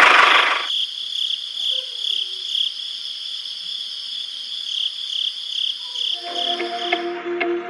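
A small motor cuts off in the first second, leaving steady cricket chirping that pulses about twice a second. Music with a rattle comes in about six seconds in.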